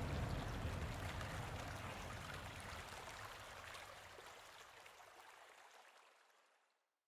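Flowing water running steadily, fading out gradually and gone near the end.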